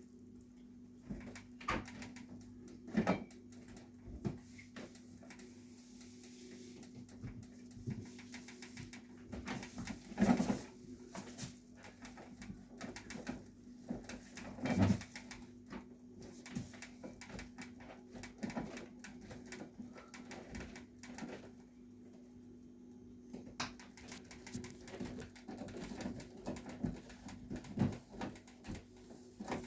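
Scattered soft knocks and handling noises over a steady low hum, with three louder thumps about 3, 10 and 15 seconds in.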